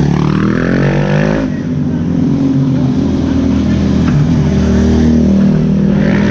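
Race car engine revving up over about a second and a half, then running steadily.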